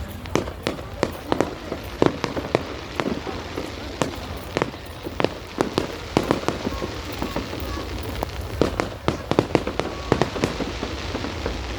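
Fireworks going off, a quick, irregular run of sharp bangs and crackles, several a second at times, over a steady low rumble.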